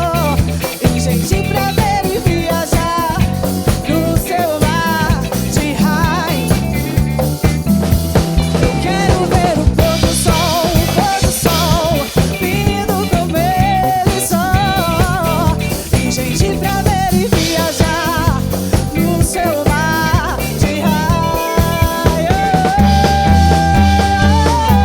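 Band playing an electro-samba groove: drum kit, bass and percussion keep a steady rhythm under a wavering lead melody.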